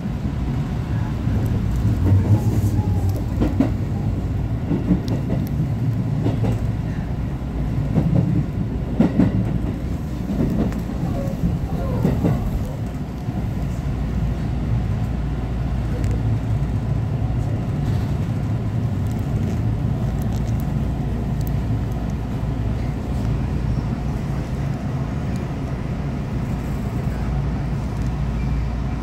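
Electric commuter train, heard from inside the front car, running with low rumble and wheel knocks as it slows into a station, then standing at the platform with a steady low hum.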